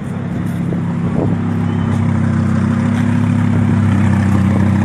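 Vehicle engine running at a steady pitch, getting louder over the first second or so and then holding.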